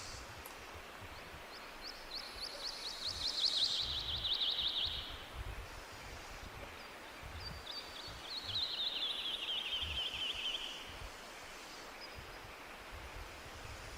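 A songbird singing two songs, each a fast trill of repeated notes that falls slightly in pitch over about three seconds. The first starts about a second and a half in, the second about seven seconds in. Underneath runs a steady background hiss and an uneven low rumble.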